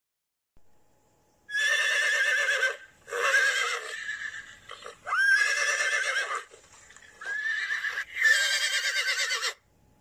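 Horse whinnying about five times in a row after a short silence. Each neigh is high and quavering.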